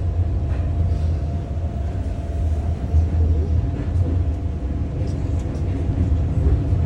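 Moving passenger train heard from inside a sleeper carriage: a steady low rumble of the running train with a faint constant hum and a few light ticks.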